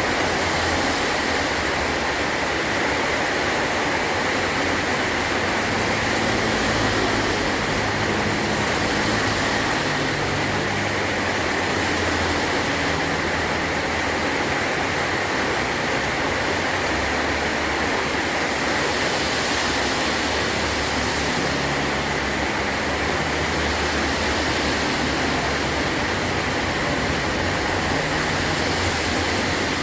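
Heavy rain falling steadily on a metal roof, an even hiss with a low rumble coming and going underneath.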